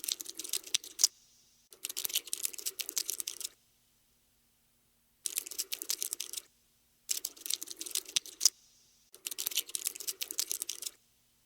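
Cockroach scuttling sound effect: five bursts of rapid, dry clicking, each one to two seconds long, with silent gaps between.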